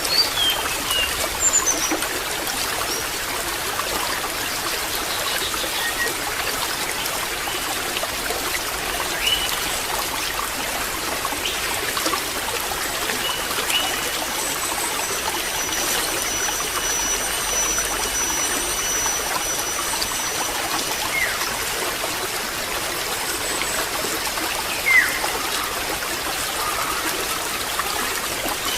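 Water trickling steadily, like a small stream, with a few short high chirps now and then.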